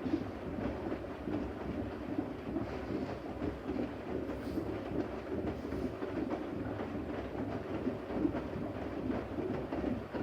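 Siemens Siwamat iQ 716 washing machine running, its drum turning with a steady rumble and a continuous rattling clatter.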